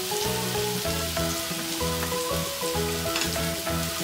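Thick fried tofu and enoki mushrooms sizzling steadily on an electric hot plate, under background music with a stepping melody and a bass line.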